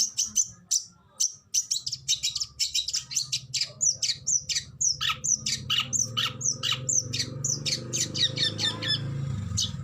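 Oriental magpie-robin (kacer) singing a fast run of sharp, high repeated notes, several a second, which from about four seconds in become quicker notes sweeping down in pitch. A low steady hum runs underneath from about two seconds in.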